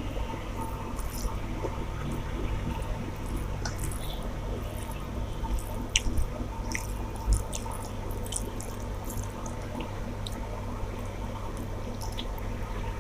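Wet squishing and smacking of a person eating rice with fish curry, with scattered small clicks over a steady low hum.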